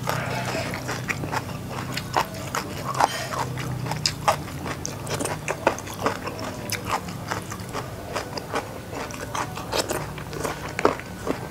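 Close-miked chewing: irregular crisp crunches and wet mouth clicks, several a second, over a steady low hum.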